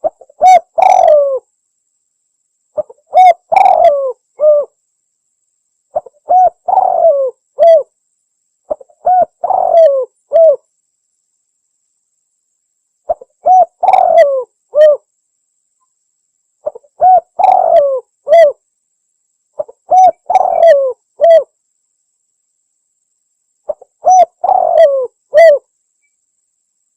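Spotted dove (tekukur) cooing: a clean recording of its repeated call, a phrase of several low coo notes about every three seconds, with a longer pause near the middle. It is played as a lure call for trapping or hunting the doves.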